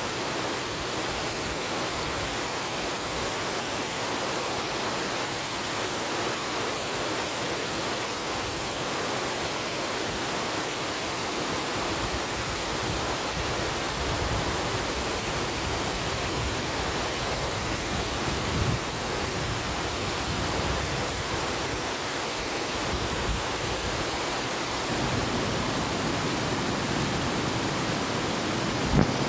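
River water rushing steadily, an even, unbroken wash of noise, with a short knock near the end.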